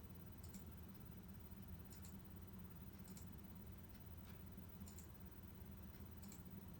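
Near silence: a low steady hum with faint, sharp clicks about once a second, unevenly spaced.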